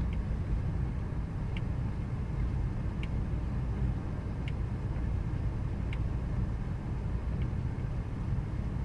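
Ford 5.4-litre V8 in a 2000 Ford Expedition idling roughly: a steady low rumble with a faint click about every second and a half.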